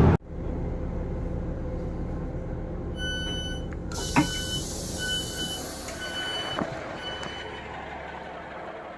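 Electronic warning beeper sounding short beeps about once a second over a steady diesel engine idle, with a hiss of air for a couple of seconds in the middle.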